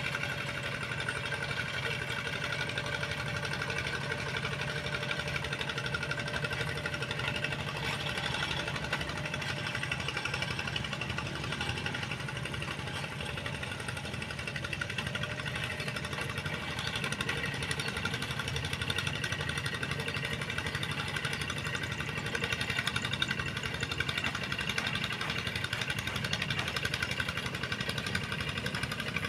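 Tractor engine running steadily with a dense, even knock.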